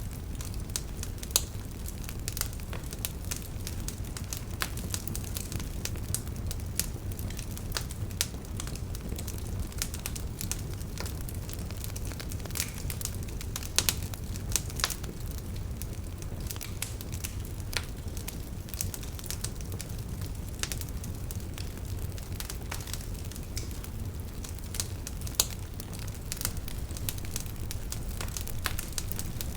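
Campfire burning, with frequent sharp crackles and pops over a steady low rumble of flames.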